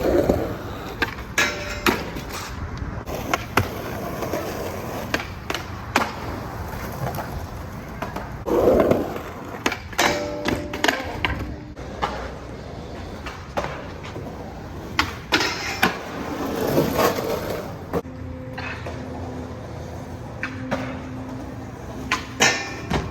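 Skateboard wheels rolling over rough pavement, with repeated sharp clacks and cracks of the board popping and landing.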